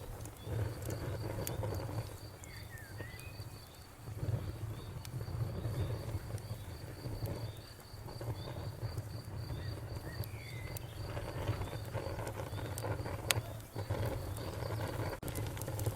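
Wood fire crackling, with sharp pops scattered through and a low rumbling flame noise that swells and fades every few seconds. A cricket chirps steadily at an even pace in the background, and a couple of short high chirps sound about a quarter and two-thirds of the way in.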